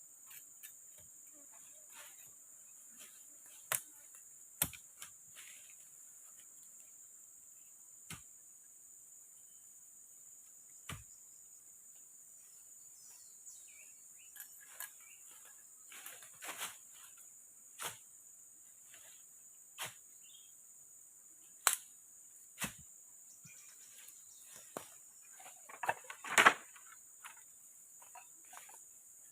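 Steady high-pitched chorus of forest insects, with scattered sharp knocks and clicks every few seconds and a louder cluster of knocks near the end.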